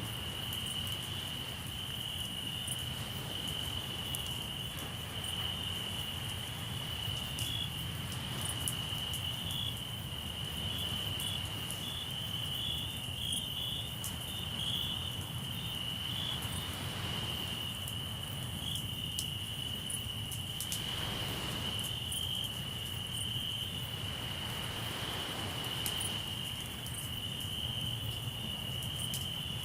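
Crickets trilling in a steady, unbroken high chorus, with occasional small crackles from a campfire and a constant low rumble underneath.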